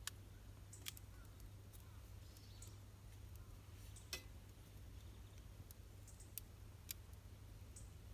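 Campfire wood crackling: a few sharp, separate pops, about five in eight seconds, over a faint steady low rumble.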